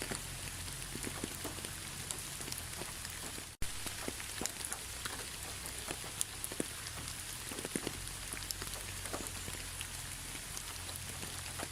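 Steady rain falling, an even hiss with many separate drops ticking sharply on a surface. The sound cuts out for an instant about three and a half seconds in.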